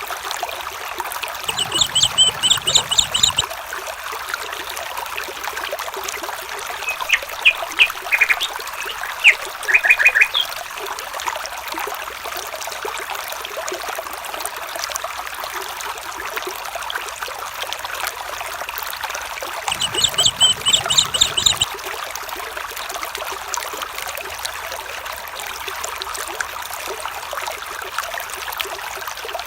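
A stream trickles and flows steadily. A rapid trilling call is heard twice, and a short run of chirps comes about seven to ten seconds in.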